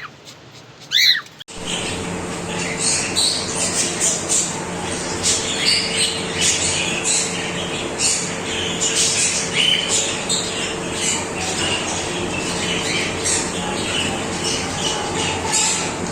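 Parrots squawking and chirping: one loud squawk about a second in, then a constant chatter of many short chirps and squawks over a steady hum.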